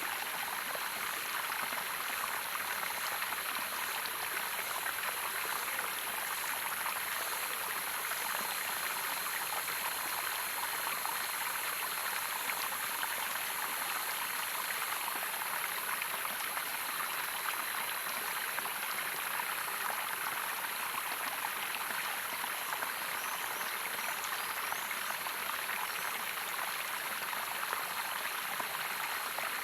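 Waterfall water running in a steady, even rush, with no change in strength.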